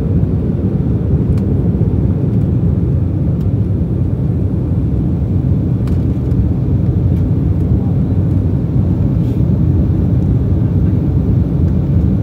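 Steady low rumble of an Embraer E190 airliner heard from inside the passenger cabin: the jet engines running and the airflow noise holding an even level, with a few faint ticks over the top.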